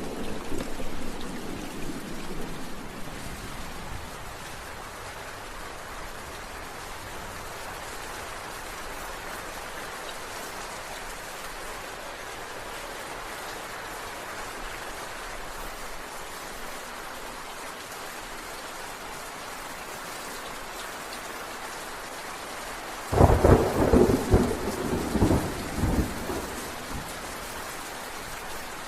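Steady rain falling, with thunder: a low rumble dies away over the first few seconds, then a sudden loud thunderclap about 23 seconds in rolls on in several surges for about three seconds.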